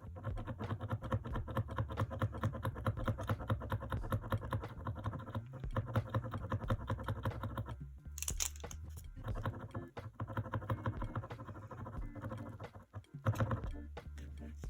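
Acrylic paint marker being shaken hard, its mixing ball rattling in rapid clicks, with a short break about two-thirds of the way through before a second bout of shaking.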